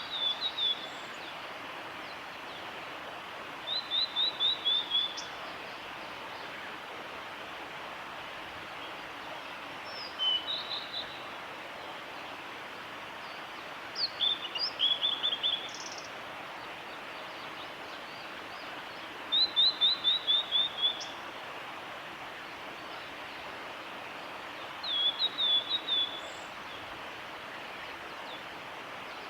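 Male blue-and-white flycatcher singing: six short phrases of rapid, descending-stepped notes, one about every five seconds, over a steady background hiss.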